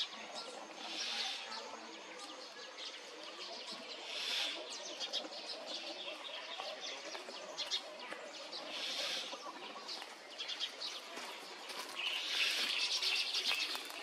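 Small birds chirping and chattering in quick, clicky runs, with a louder, harsher stretch near the end.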